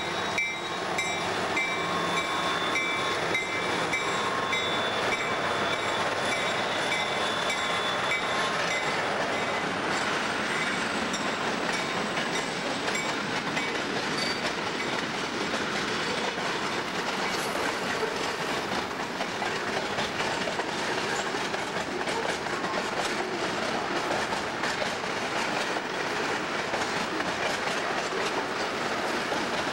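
CSX freight train cars rolling across a railway bridge: a steady rumble and clatter of wheels on the rails. Thin, high, steady whines sound over it for roughly the first eight seconds, then fade.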